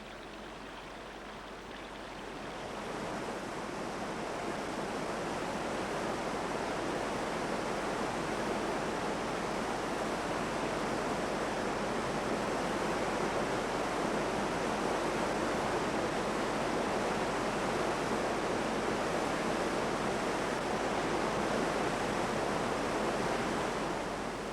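Steady rushing water, a dense even roar that swells in over the first couple of seconds and eases off near the end.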